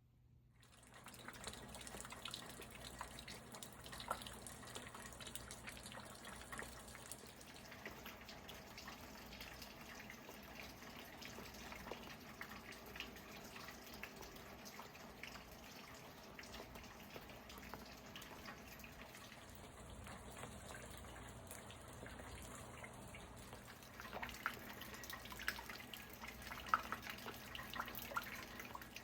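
Rain falling faintly, with many scattered drips landing; the drips grow louder and more frequent near the end.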